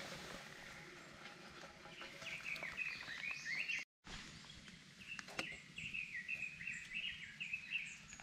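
Songbirds chirping repeatedly over a faint outdoor background hiss, cut off briefly about four seconds in.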